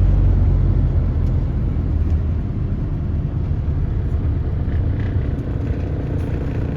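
Steady low rumble of a car driving along the road, heard from inside the moving car.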